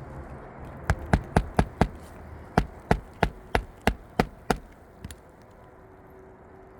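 Hammer driving roofing nails into a replacement asphalt shingle: a quick run of five blows, a short pause, then seven more at about three a second.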